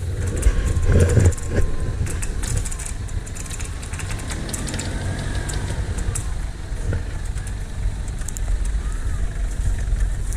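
An off-road vehicle's engine running, with a steady low rumble, a faint wavering whine, and scattered sharp clicks and crackles.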